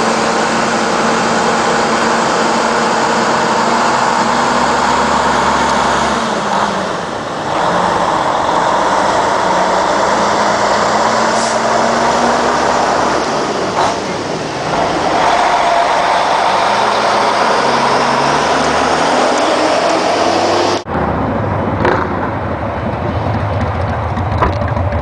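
Motorcycle on the move: heavy wind rush over the microphone with the engine running underneath, its pitch changing in steps. About 21 seconds in, the wind noise cuts off suddenly and a low, pulsing engine rumble remains.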